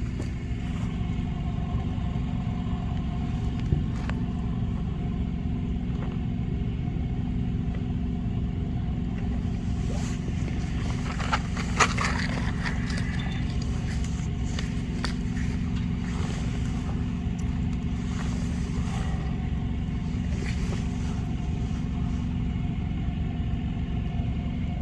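Generator running steadily with a low hum, overlaid by a few short scrapes and snaps about four seconds in and again around eleven to twelve seconds in, as wooden matches are struck to light the fire starters.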